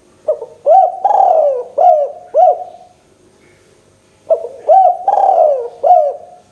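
Spotted dove (tekukur) cooing loudly: two phrases a little over a second apart, each a short note, then a long drawn-out arching coo, then two quick clipped notes.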